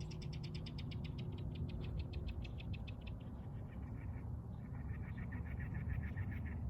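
A bird calling in rapid trills of short, clicking notes, about ten a second: a higher trill for the first few seconds, then a lower, faster one near the end. A low steady rumble lies underneath.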